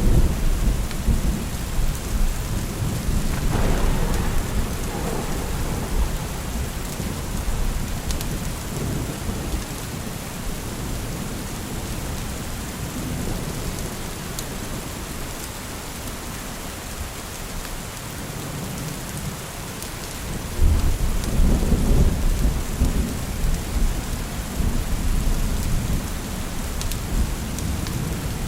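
Steady rain with rolling thunder: a low rumble dies away over the first few seconds, and another rumble starts suddenly about twenty seconds in.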